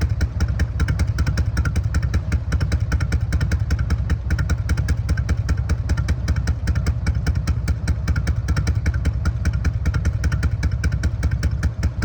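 Carbureted 1450cc Twin Cam V-twin engine of a Harley-Davidson FLHTC running steadily with an even, pulsing beat.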